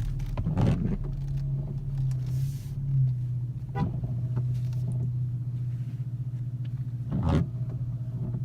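Car engine idling steadily, with a few brief knocks or thumps.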